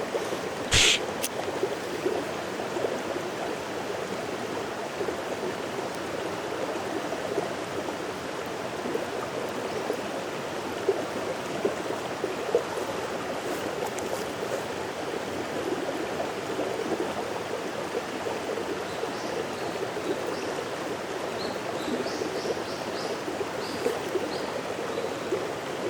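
Mountain stream flowing, a steady rush of water. A sharp click about a second in, and a run of short high chirps near the end.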